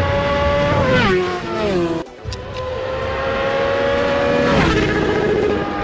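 High-displacement sport motorcycle at high revs, its engine note climbing slowly and then dropping sharply as it passes at speed. This happens twice, with a brief break in the sound about two seconds in.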